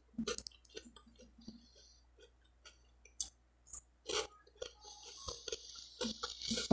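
Close-up chewing of crisp buttered toast, with scattered soft crunches and wet mouth clicks.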